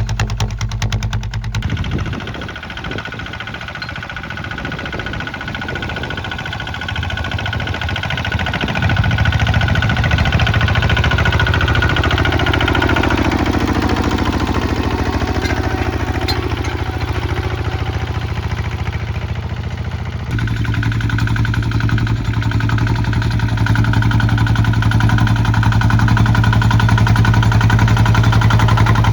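Kubota ZT155 single-cylinder diesel engine running steadily while plowing. It gets louder about a third of the way in, and its sound changes abruptly twice.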